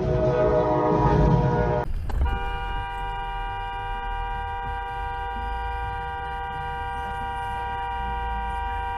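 A vehicle horn blaring over low rumbling vehicle noise, then an abrupt change about two seconds in to a single long, steady horn blast that holds to the end.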